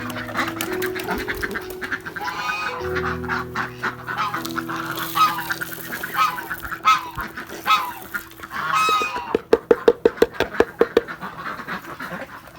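Domestic waterfowl calling: a string of short honking calls, then a quick run of calls at about ten a second about nine seconds in.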